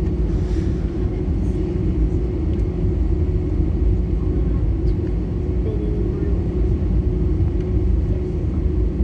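Steady engine and airflow rumble inside the cabin of a British Airways Airbus A320, deep and even, with a constant hum running through it.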